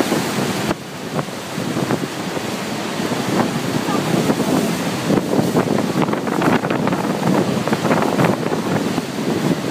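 Wind gusting hard on the microphone over a steady rush of water, with an abrupt change about a second in.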